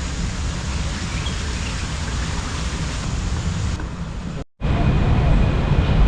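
Steady outdoor background noise with a low rumble. It breaks off in a brief dropout about four and a half seconds in, and after that the rumble is louder.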